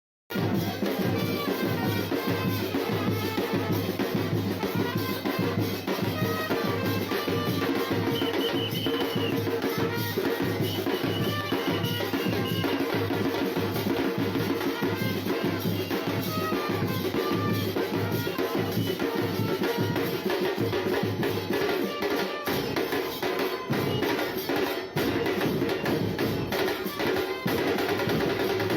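Drums pounding out a steady march beat, about two strokes a second, bass drum and snare together over a dense, continuous din.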